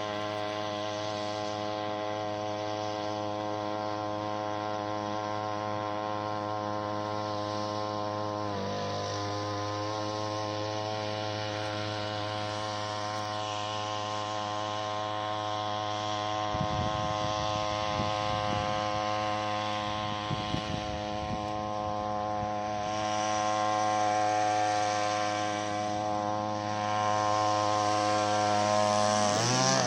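Small 3 hp outboard motor running steadily under way, with a brief dip in engine pitch about nine seconds in. It grows louder and rougher in the second half, and the pitch shifts again right at the end.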